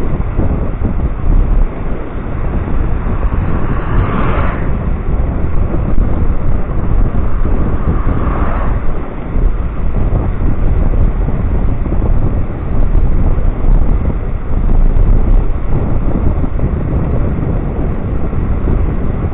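Wind buffeting the microphone while riding an electric scooter at speed: a loud, steady low rumble, with two brief swells of higher hiss about four and eight seconds in.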